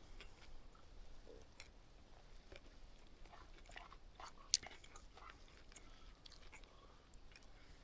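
Faint sounds of someone eating: chewing with scattered small clicks, and one sharp click about four and a half seconds in.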